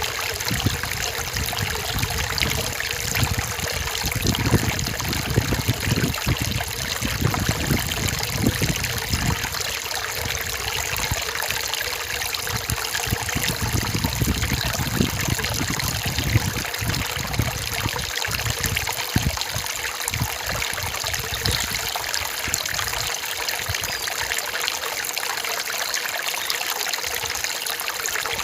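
Rainforest stream running over rocks, a steady trickling and splashing with irregular low gurgles.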